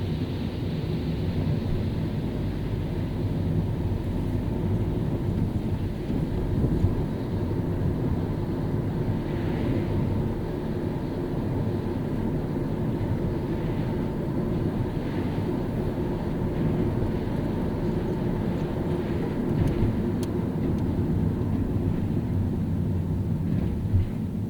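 A car driving on a rain-wet road: steady low road rumble with a fainter hiss of tyres on water, and a few brief swells of hiss near the middle.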